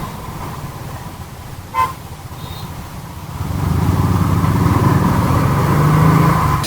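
Royal Enfield Thunderbird 350's single-cylinder engine running on the road, picking up and getting louder about halfway through. There is a brief horn toot about two seconds in.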